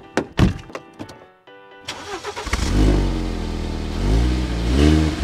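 Clicks and knocks of a car door handle and door being opened, then about two seconds in the BMW E87 1 Series engine starts and runs, revved up and back down twice near the end.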